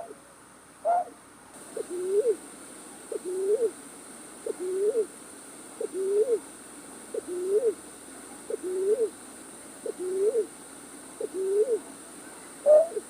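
Night-bird call recording used as a trapping lure: a short sharp call twice at the start, then a run of about nine low two-part calls, each dipping and then rising, about one a second, and two short higher calls again near the end.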